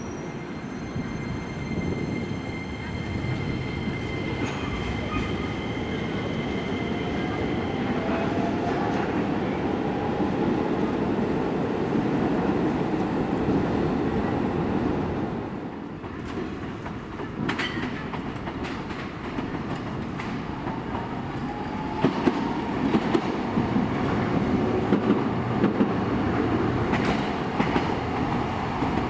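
Keisei Main Line electric trains running on the track with a steady rumble of wheels on rail. A high steady tone rings over the first several seconds, and a faint rising whine comes from the motors. After a brief lull about sixteen seconds in, another train passes with its wheels clacking over the rail joints toward the end.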